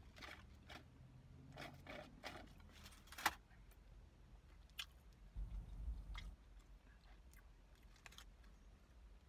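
A person chewing and handling a wrapped fast-food burger, with soft crackles and crinkles scattered through and one sharp click about three seconds in.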